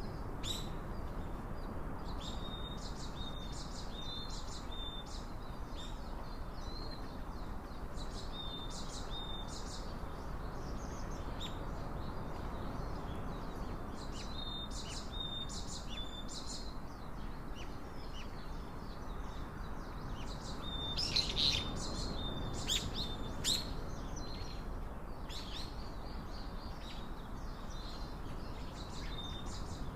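Small songbirds chirping: many short high chirps in quick clusters, over a steady low background hiss. The chirps are loudest about three-quarters of the way through.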